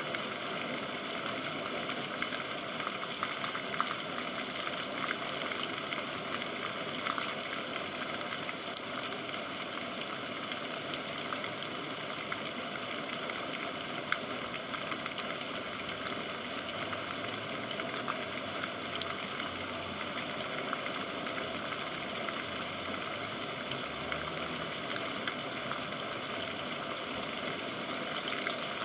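Steady rainfall, an even hiss of water with many small drop ticks throughout.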